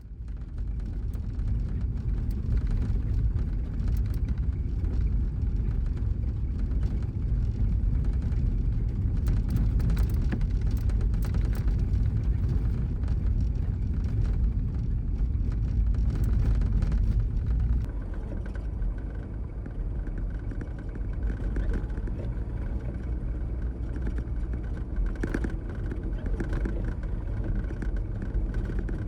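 Kei truck driving: a steady low rumble of engine and road. It eases slightly about two-thirds of the way through, when a faint higher steady whine comes in.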